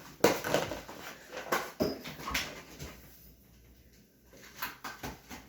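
A dog whimpering, over a run of sharp knocks and clatter from kitchen handling in the first three seconds; quieter after that.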